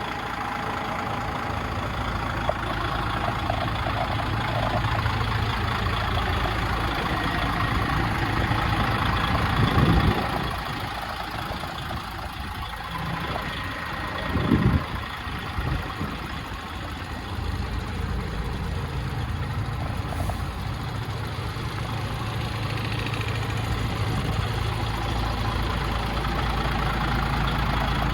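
DAF XF105 tractor unit's straight-six diesel engine idling steadily, with two brief louder low thumps about ten and fifteen seconds in.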